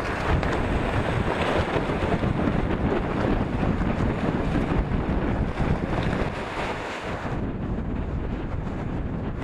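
Wind buffeting the microphone aboard a sailing catamaran under way, with water rushing along the hulls: a steady, dense rush with no engine.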